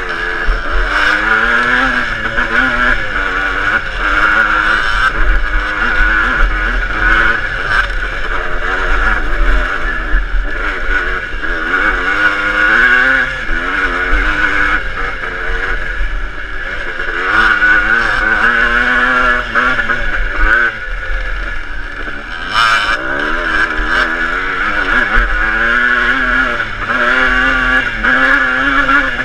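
Motocross bike engine running hard, its pitch rising and falling again and again as the throttle opens and closes.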